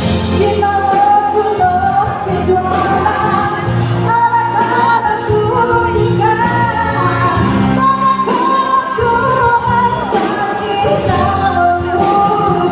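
Song with singing over instrumental accompaniment: a sung duet, the voice holding long, wavering notes.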